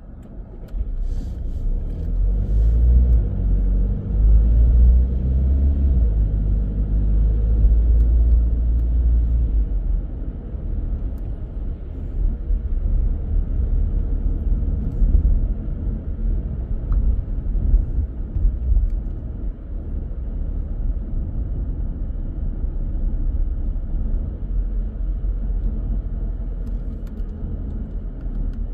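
Car driving on the road: steady low engine and tyre rumble. During the first ten seconds the engine note shifts in steps, then settles into even road noise.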